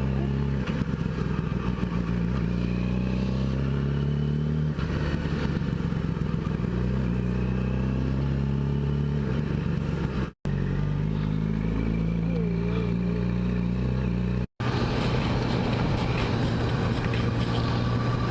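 Yamaha YZF-R6 inline-four engine running while riding, heard from the rider's helmet camera, its pitch shifting up and down with road speed over a steady rush of wind noise. The sound cuts out briefly twice.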